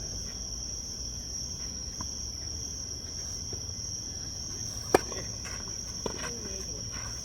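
Steady high chirring of crickets, with a sharp, loud crack of a tennis ball struck by a racket about five seconds in and a softer knock about a second later.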